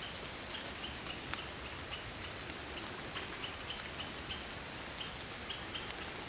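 Night forest ambience: a steady hiss of rain with a few sharp drop ticks, and crickets giving short high chirps, two or three a second.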